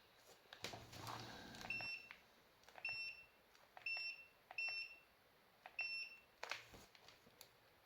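Five short, high electronic beeps a second or so apart, each with a small click close by, amid light handling noise on a workbench.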